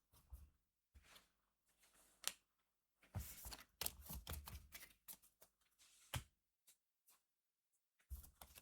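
Cardfight!! Vanguard trading cards being handled and slid against one another: soft rustling with a few sharp snaps, busiest about three to five seconds in.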